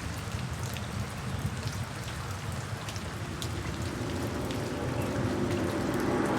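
Steady rain falling, with individual drops ticking sharply here and there; the sound grows louder toward the end.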